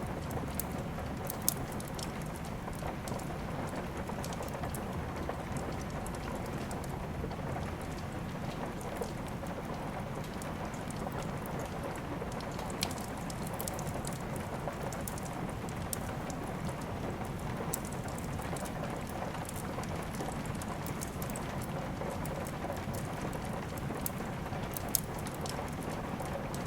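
Steady rainfall, with a handful of sharp, isolated pops from a crackling wood fire.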